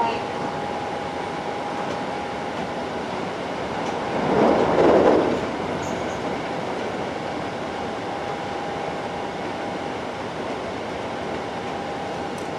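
Running noise heard from inside a Hankyu 7300 series electric train car under way between stations: a steady rumble of wheels on rail with a thin steady high tone through it, and a brief louder rush of noise about four seconds in.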